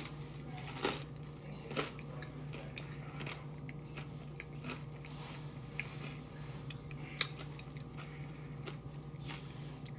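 A person chewing a mouthful of crunchy crackers with dip, with a few sharper crunches, over a steady low hum.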